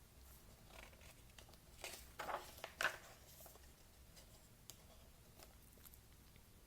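Near silence: quiet room tone with a few faint rustles and small clicks about two to three seconds in.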